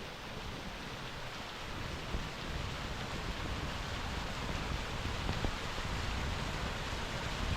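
Steady rush and splash of water falling from a small roadside waterfall, growing slightly louder over the first few seconds.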